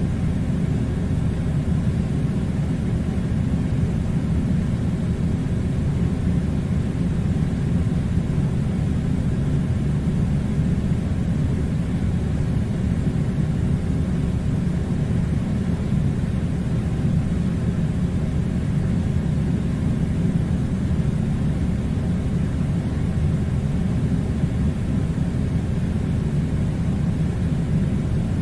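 Steady low rumbling noise, even and unchanging, with no distinct events.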